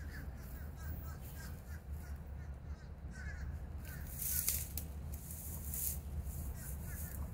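Birds calling over and over above a steady low rumble, with a stretch of hiss about halfway through.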